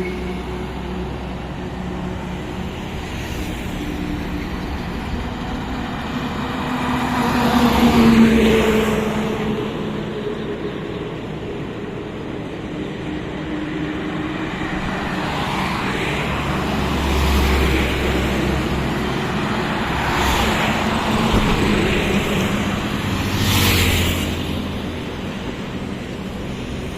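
Highway traffic with a truck: engines running steadily as several vehicles swell past, the loudest about eight seconds in.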